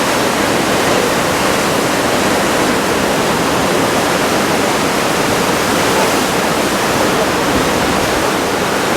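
Big typhoon-driven surf breaking: a steady, unbroken rush of waves with no single crash standing out.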